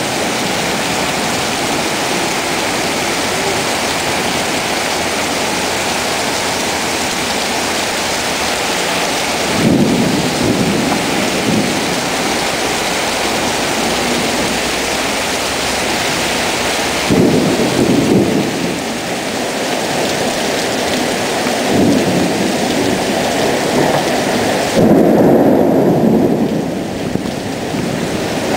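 Heavy rain pouring down steadily, with four louder low surges, each a second or two long, spread through it.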